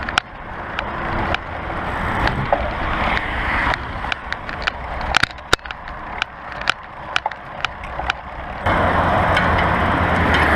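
Bicycle riding over rough dirt: steady tyre rumble with many sharp clicks, knocks and rattles from the bike over bumps and stones. A louder steady rush comes back about nine seconds in.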